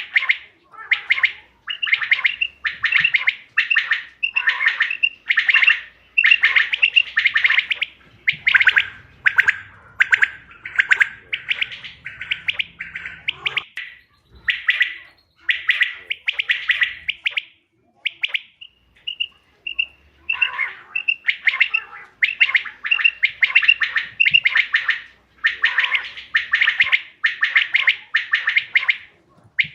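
Quail calling over and over in short bursts, about two a second, broken just past the middle by a few short whistled notes before the bursts resume.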